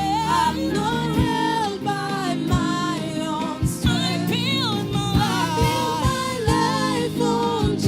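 Gospel choir singing with a band: sustained sung lines over keyboard chords and a drum beat.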